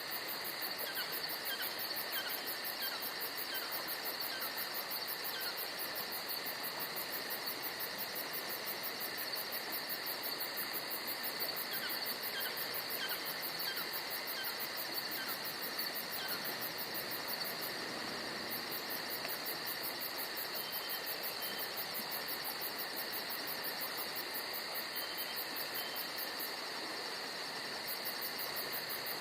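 Steady chorus of chirping insects with a rapid, even pulsing. Two short runs of small falling bird chirps come in, one near the start and one about halfway through.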